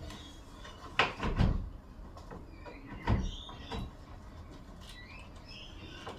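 Clunks and knocks of parts being handled and fitted back into a car's engine bay: a double knock about a second in, a sharper knock about three seconds in, and a lighter one just after.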